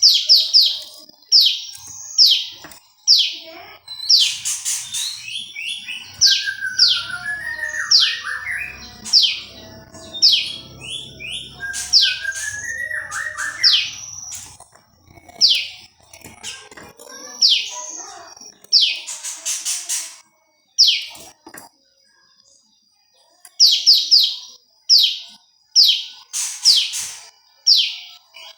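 Prenjak lumut singing: quick series of sharp chirps that sweep down in pitch, with twice a lower, rising twittering phrase in the first half, and a brief pause about three-quarters of the way through.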